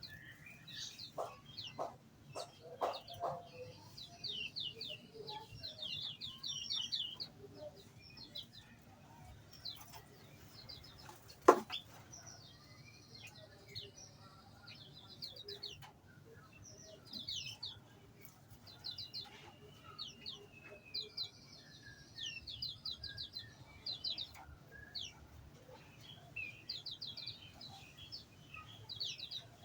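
Small birds in an aviary chirping and twittering, with many short rapid trills repeating throughout, and a few lower calls in the first few seconds. A single sharp click about eleven seconds in is the loudest sound.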